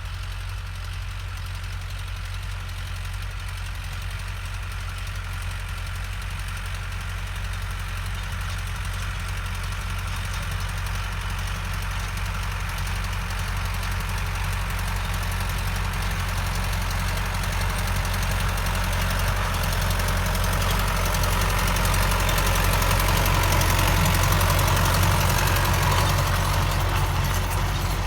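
Tractor engine running steadily with a knocking, clattering note, growing gradually louder as it comes closer and easing off slightly near the end.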